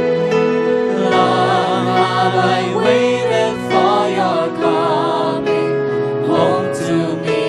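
Christian worship song: sung voices with vibrato over sustained instrumental chords.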